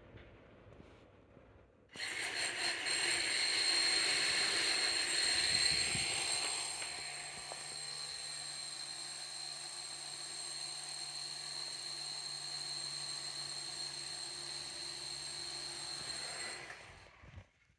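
A loud motorised machine starts suddenly about two seconds in and runs with a steady high whine over a hiss. After about six seconds it settles a little lower, with a low hum beneath, and it cuts off shortly before the end.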